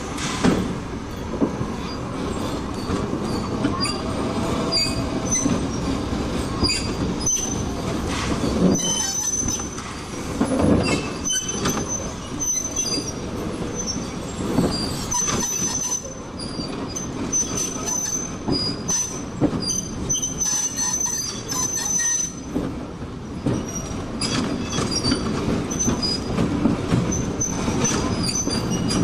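A narrow-gauge log-car train behind a Shay steam locomotive rolling along, its steel wheels squealing in thin high notes now and again over a steady rumble and clatter.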